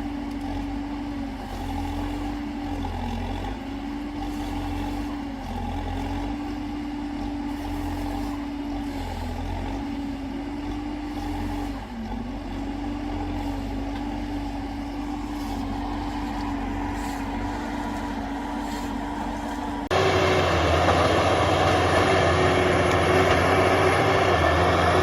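Forestry harvester's diesel engine running steadily, its pitch dipping briefly every few seconds as it takes load. Near the end the sound cuts abruptly to a louder, rougher machine engine.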